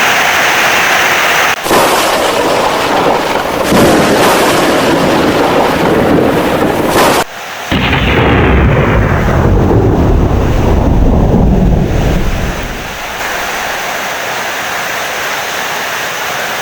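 Heavy rain with loud rolling thunder. The deepest rumble swells about halfway through and dies down after about four seconds, leaving steady rain. The sound cuts out sharply twice, briefly.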